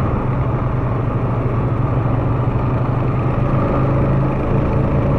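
ATV engine running steadily at low speed, a constant hum.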